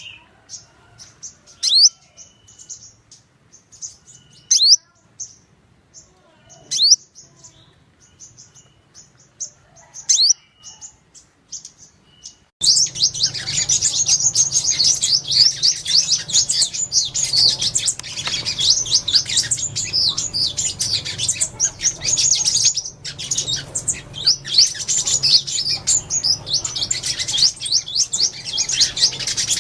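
Sunbirds' flock-calling chirps. First comes faint twittering broken by a few sharp, high single calls every two to three seconds. About twelve seconds in, it cuts suddenly to a loud, dense chorus of many sunbirds chirping rapidly over a low hum.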